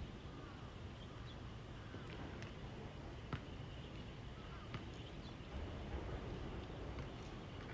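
Steady low outdoor rumble with faint honking bird calls and a few short, sharp clicks scattered through.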